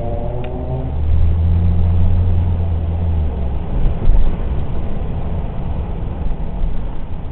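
Car engine running as the car drives, with a steady low drone for the first three seconds or so, then a rougher mix of engine and road noise.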